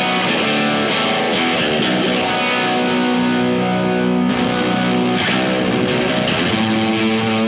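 Electric guitar in a low tuning played through a heavily driven, fuzzy pedal chain that includes the Wyong Rd Electronics Keris overdrive/fuzz/boost, ringing out sustained, distorted low chords and notes at a steady level.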